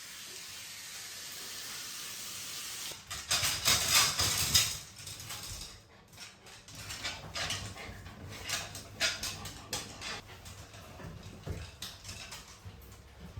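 Rustling and scuffling from a Shiba Inu mother moving in her whelping bed. A steady hiss comes first, then a loud burst of rustling about three seconds in, followed by scattered softer rustles.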